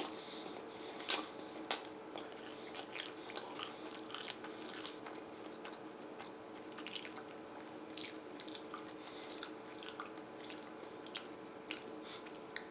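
A person eating spaghetti: quiet chewing with irregular small clicks and smacks, over a steady faint hum.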